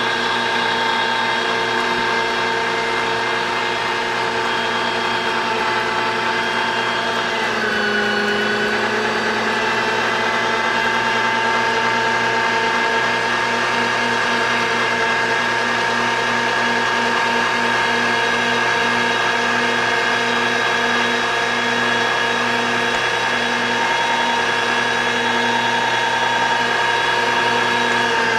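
Electric meat grinder running steadily, a motor whine with a fast, regular pulsing beneath it. Its pitch sags briefly about eight seconds in, then recovers.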